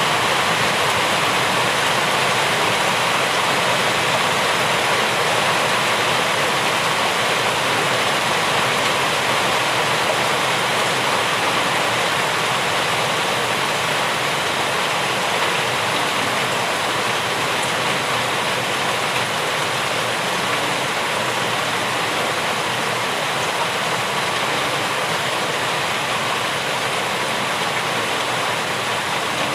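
Rain falling steadily, an even, unbroken hiss with no single drops or other events standing out.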